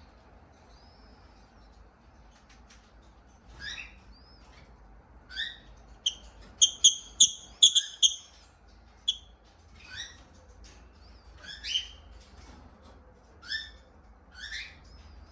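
Pet lovebird giving short, high-pitched chirps on and off, with a quick run of loud chirps about six to eight seconds in.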